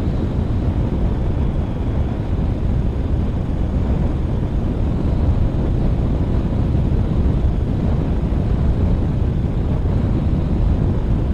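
Motorcycle under way at a steady speed: a steady low rumble of engine, road and wind noise, with no marked change in pitch or level.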